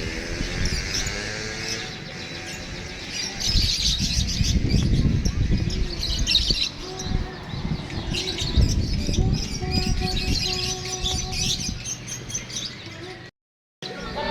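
Many caged songbirds singing at once, dense chirps and trills over a murmur of crowd voices. The sound cuts out completely for about half a second near the end.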